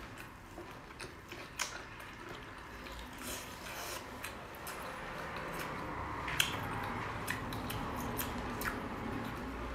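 Close-miked eating of spicy-sauced lobster: wet chewing and lip-smacking, with sharp clicks as the meat is bitten and pulled from the shell.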